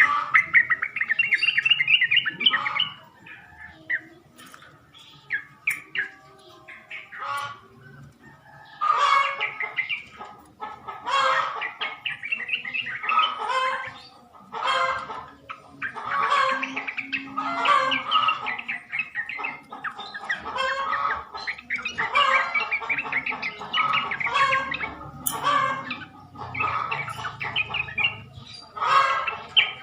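Yellow-vented bulbul (trucuk) song: bubbly, chattering phrases. A burst comes at the start, then a few seconds of scattered short notes, then phrases repeated about every two seconds.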